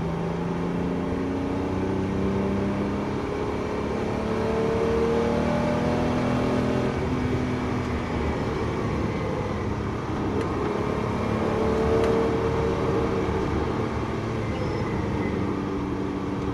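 Porsche 911 GT3's flat-six engine heard from inside the cabin at track speed, rising in pitch as it accelerates, easing off about ten seconds in, then pulling again, over steady road and wind noise.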